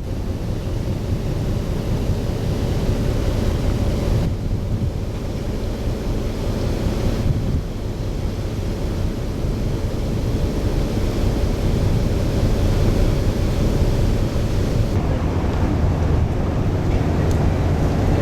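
Wind buffeting the microphone: a steady low rumble, with a faint constant hum underneath for most of the stretch.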